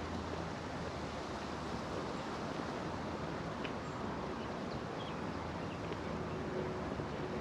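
Steady outdoor ambience: an even rush of wind and distant traffic, with a few faint, short, high chirps.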